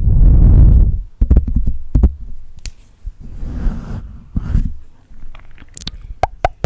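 Close-miked ASMR mouth sounds: a heavy breath blown onto the microphone, then wet tongue clicks and mouth pops. A second breath comes about halfway, and a quick run of sharp clicks and pops follows near the end.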